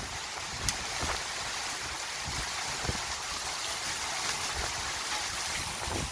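Heavy rain pouring down in a steady dense hiss, with uneven low rumbles and a single sharp tick under a second in.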